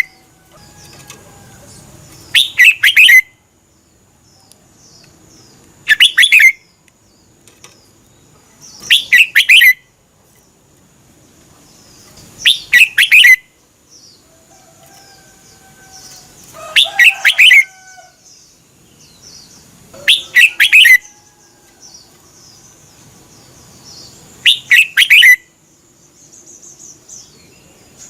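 Red-whiskered bulbul singing loud, short, bright phrases, seven of them, one about every three and a half seconds. Fainter bird chirps fill the gaps.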